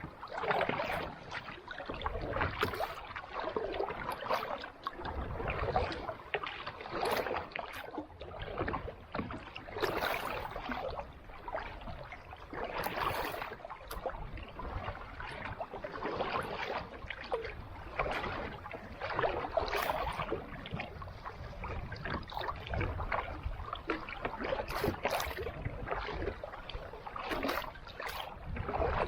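Kayak paddle strokes dipping and splashing in calm sea water, a stroke about every three seconds.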